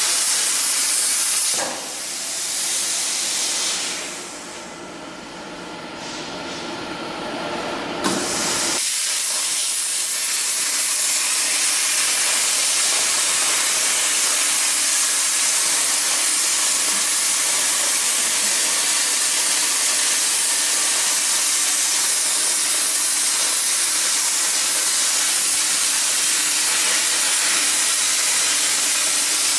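Cutting torch on a CNC gantry cutter hissing steadily as it cuts. About two seconds in the hiss drops away for several seconds. A sharp click comes just before the full hiss returns.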